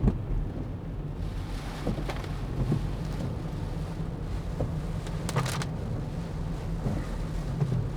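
Steady low rumble of a car driving on a waterlogged road, heard from inside the cabin, with a few light knocks and a brief hiss about five and a half seconds in.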